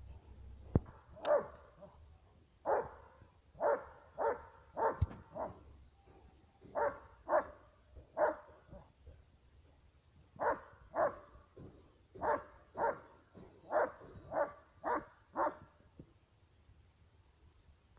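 Dog barking repeatedly, about twenty short barks in bursts of three to five with pauses between. Two sharp clicks come in the first few seconds.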